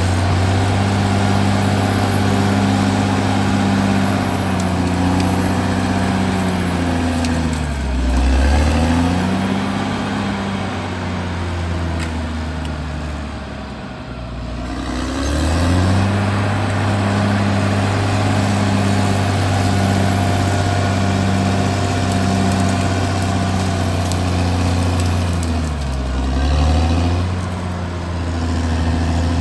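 Caterpillar D6R XL bulldozer's diesel engine running hard, its steady note sagging and coming back up three times: once about a quarter of the way in, a deeper drop and climb near the middle, and again near the end.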